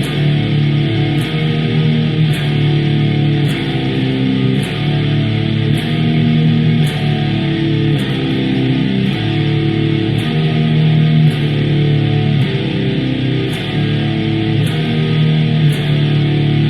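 Electric guitar tuned to drop C playing a low riff, a short pattern of notes repeated over and over.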